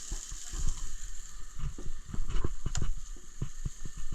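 Hamburger patty frying in oil in a pan: a steady sizzle with irregular crackling pops and low knocks.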